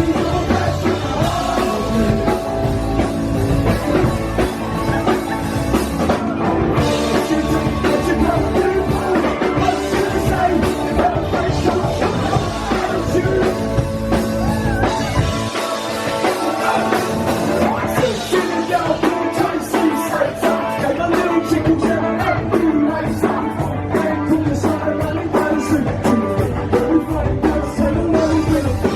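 Live rock band playing loudly, with drums, guitars and a singer; the bass briefly drops out about halfway through.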